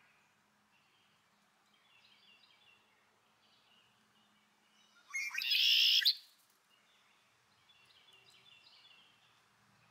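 Wild birds chirping faintly on and off, with one loud, harsh call lasting about a second, about five seconds in.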